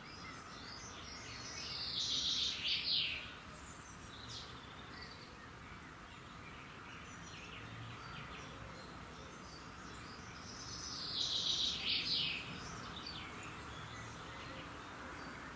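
Wild birdsong: one bird sings the same short, loud song phrase twice, about nine seconds apart, over a steady background of fainter bird calls and insect chirring.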